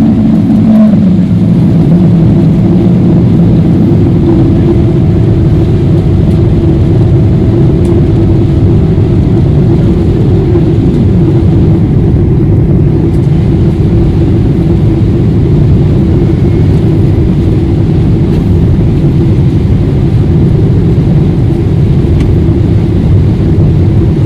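Steady, loud cabin noise of a Boeing 777-300ER in flight: the low rush of airflow and engines, with a faint steady hum over it.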